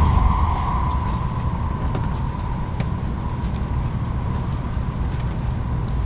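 Tokaido Shinkansen train running at speed, heard inside the passenger cabin: a steady low rumble with a steady whine above it and a couple of light clicks.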